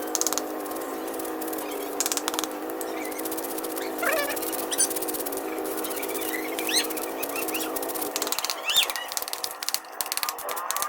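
Birds chirping in short rising calls, over a steady hum that cuts off about eight seconds in, with a few sharp clicks.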